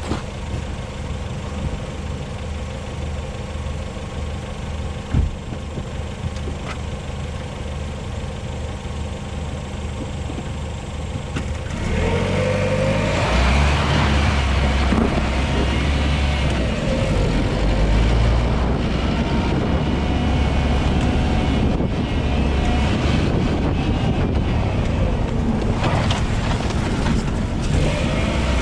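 LADA Vesta SW Cross's 1.8-litre engine running steadily at low revs, then about twelve seconds in the car moves off with rising revs and the tyres and suspension rumble over a deeply rutted dirt road, louder from then on.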